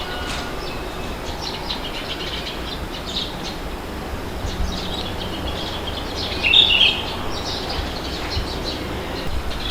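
Small birds chirping over a steady low rush of wind, with one louder call about two-thirds of the way through.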